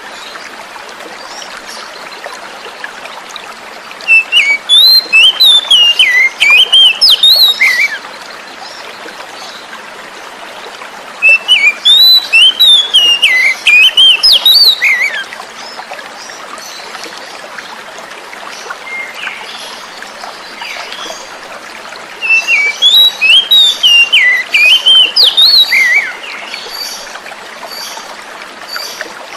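Oriental magpie-robin singing in three bouts of rapid, varied whistled phrases, each about four seconds long, over a steady background of flowing water.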